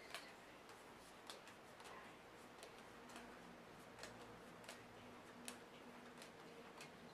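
Near silence: faint, sharp clicks, about one or two a second at uneven spacing, over a low room hum.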